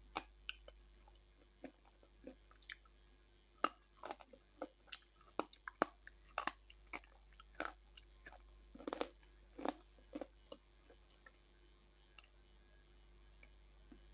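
Slate pencil being bitten and chewed: a run of sharp, brittle crunches, coming thick and fast in the middle and thinning out near the end.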